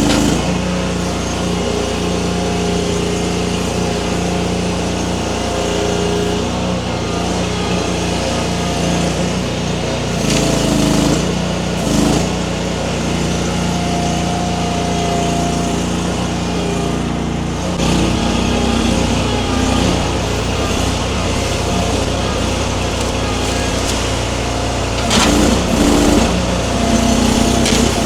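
Engine of a Baumalight mini skid steer running steadily as the machine works, with a few brief swells in loudness and a change in its note about two-thirds of the way through.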